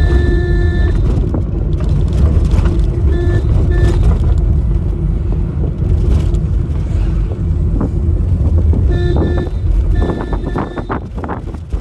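Steady low rumble of a car on the move, with short horn honks at the start, twice around three to four seconds in, and twice more near the end.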